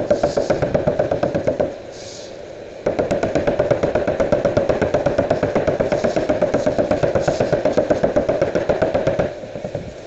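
Rapid, even mechanical knocking, about ten strokes a second, that stops for about a second near the start and then resumes at full strength.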